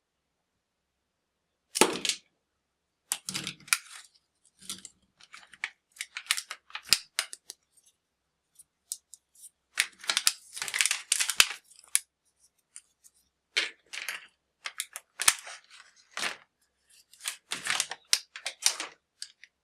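Plastic toys and their packaging being handled: scattered sharp clicks, knocks and short rustles, busiest about ten seconds in.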